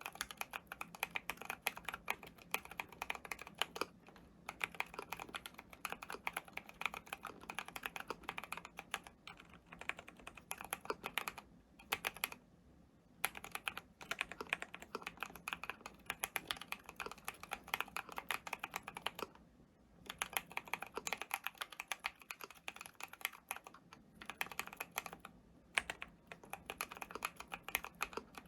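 Fast, continuous typing on a custom enthusiast keyboard, a dense run of keystroke clacks broken by a few short pauses.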